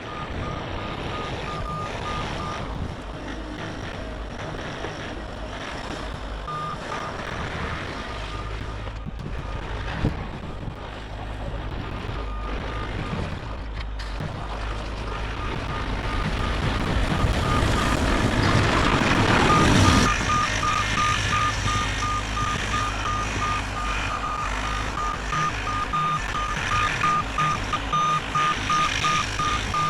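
Bobcat E50 compact excavator running, its travel alarm beeping in quick repeated pulses while it moves, stopping and starting again as the machine travels. About two-thirds of the way in the machine gets louder and noisier for a few seconds.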